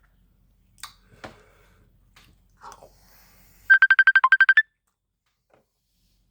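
Mobile phone ringtone signalling an incoming call: a quick run of about ten high beeps lasting about a second.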